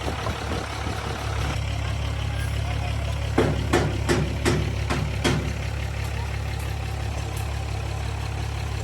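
A heavy engine idling steadily, with a run of about six sharp knocks a little over three seconds in.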